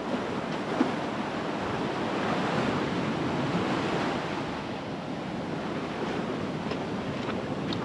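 Ocean surf washing onto a sandy beach, swelling for a couple of seconds in the middle, with wind on the microphone.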